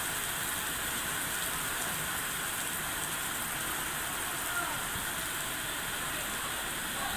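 Steady rain falling, an even hiss of rain with no let-up.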